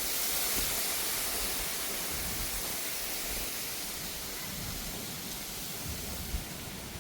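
Steady hiss of rain falling, with one brief tap about six seconds in.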